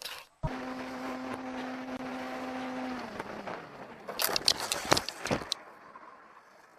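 A vehicle engine hums at a steady pitch, then its pitch slides down about three seconds in. About a second later comes a cluster of sharp knocks and clattering.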